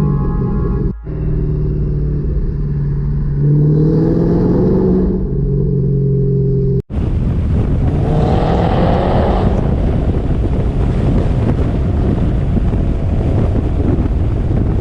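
Car engines running with a deep, steady note that rises in pitch as they rev, broken by two abrupt cuts. About halfway through, a car accelerates with a rising engine note over heavy wind noise.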